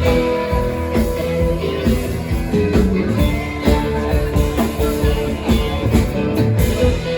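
Rock band playing an instrumental passage, with guitar to the fore.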